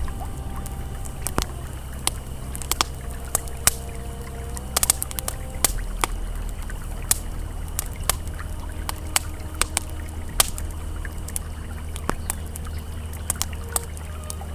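Campfire crackling, with sharp irregular pops and snaps, over the steady low rush of flowing river water. Faint held ambient tones sit in the background.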